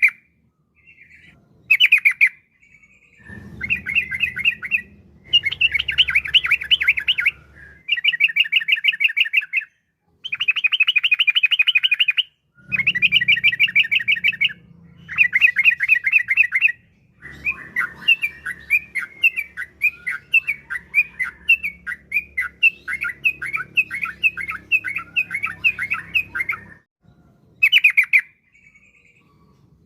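Yellow-vented bulbul (trucukan) singing in long, rapid chattering runs of quick repeated notes, separated by short pauses, with single short calls at the start and near the end. This is the lively, continuous 'gacor' song used as a lure to set other bulbuls singing.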